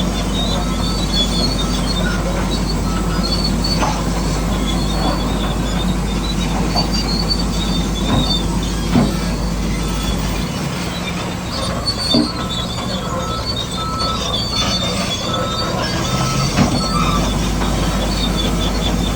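Radio-controlled model bulldozer working: small electric motors and gearboxes whining steadily while metal tracks clatter and squeak, with a few sharp knocks of rock or metal.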